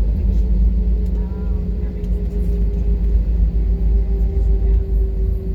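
Airbus A320 jet engines running, heard inside the cabin as a steady low rumble with a hum that drifts slightly lower in pitch.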